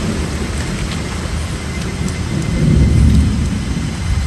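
Steady rain pouring down, with a low rumble of thunder swelling about two and a half seconds in.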